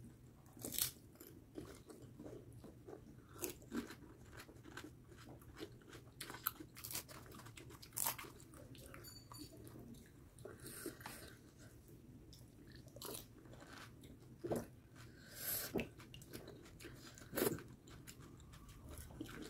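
Pani puri (fuchka) being eaten: the crisp, hollow fried puri shells, filled with green-chilli water, crunch faintly and irregularly as they are bitten and chewed.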